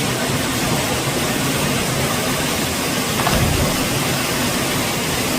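Waterfall rushing with a steady, loud roar of falling water. A brief low thud comes about three seconds in.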